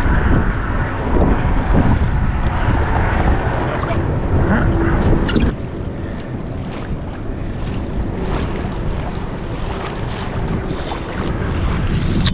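Wind buffeting the microphone over water washing against a kayak's hull as it moves along; the hiss eases a little about five and a half seconds in.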